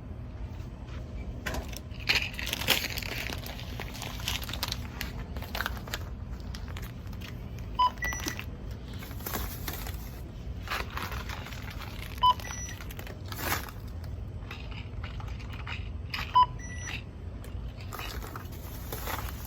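Self-checkout barcode scanner beeping as items are scanned: three short two-note beeps about four seconds apart, with plastic bags and packaging crinkling between them.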